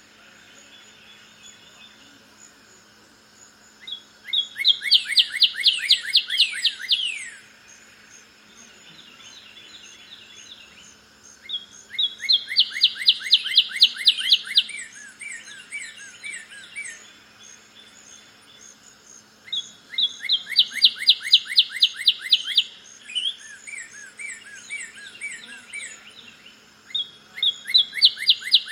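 Northern cardinal singing: four phrases, each a rapid run of loud slurred whistles lasting about three seconds, separated by pauses of several seconds. A thinner, higher-pitched bird song chatters faintly in the background.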